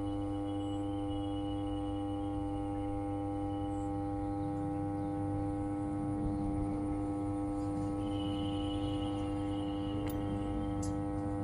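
Power transformer humming steadily: a constant low electrical drone with several fixed higher tones above it, the sound of a transformer that is energized.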